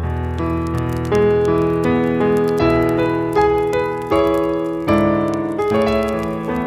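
Gentle piano music: slow single notes and chords struck about once a second, each ringing and fading.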